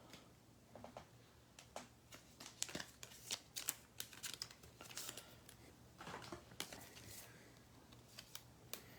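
Faint, irregular rustling and light clicks of trading cards being handled and slid against each other and into sleeves, thickest in the middle of the stretch.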